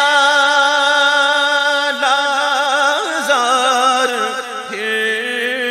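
A solo voice singing an Urdu song. It holds one long note for about two seconds, then ornaments it with wavering runs, and settles on a lower sustained note near the end.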